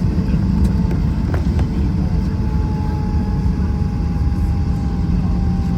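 Airbus A321 cabin noise from the engines and airflow: a steady loud rumble with a thin whine that slowly falls in pitch, and a brief click about a second and a half in.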